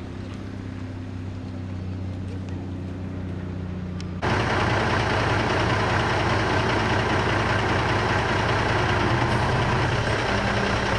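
A vehicle engine running at a steady idle. About four seconds in, a much louder rushing noise cuts in suddenly over the engine hum.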